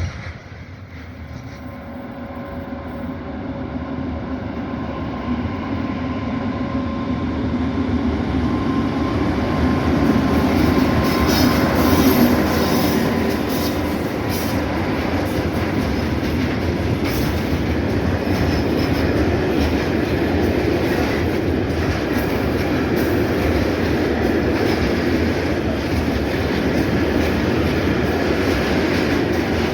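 Freight train passing close by: the locomotive's humming whine grows louder over the first ten seconds or so, then the wagons go by in a steady rumble with clatter of wheels over rail joints and a little wheel squeal.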